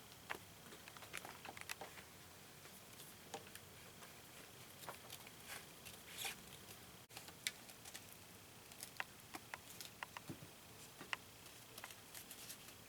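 Faint, irregular clicks and scratches of a metal pipe being pressed and twisted through a square of EVA foam floor mat to punch a hole in it.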